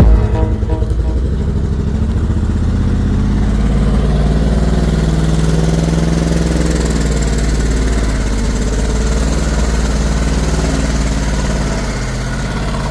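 Old ZIL truck engine running at idle; its pitch rises slightly a few seconds in and eases back down, and it runs a little softer near the end.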